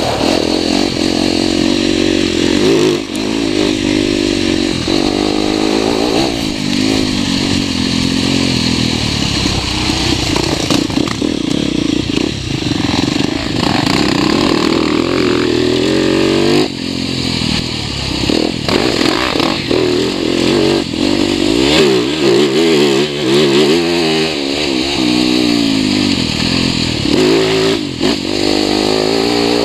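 TM 300 Fi four-stroke enduro motorcycle engine revving up and down as it is ridden hard, heard from onboard the bike, with the throttle shutting off briefly a few times.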